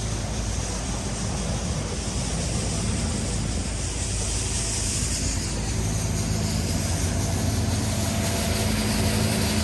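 A motor vehicle's engine running close by: a steady low hum over street noise that grows louder over the last few seconds.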